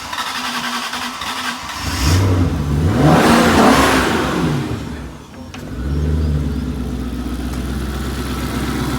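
Cold start of a Maserati 3200 GT's 3.2-litre twin-turbo V8 through a stainless sports exhaust. The engine catches about two seconds in, flares up in revs to its loudest around three to four seconds, drops back, and settles into a steady idle from about six seconds on.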